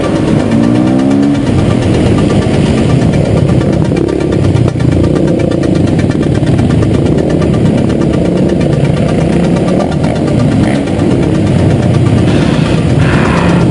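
Dirt-bike engines running steadily, with a short rev rising in pitch about a second in.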